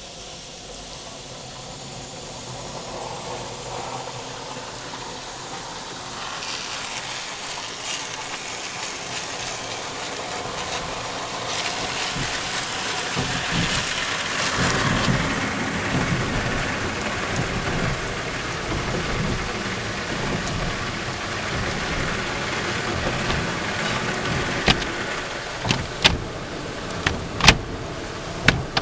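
Automatic car wash spraying water onto the car, heard from inside the car: a steady rushing, drumming noise like heavy rain that builds up gradually, with a few sharp knocks near the end.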